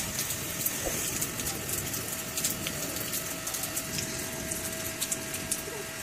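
Steady rain falling on a wet tiled rooftop: an even hiss of water with many small sharp drop ticks.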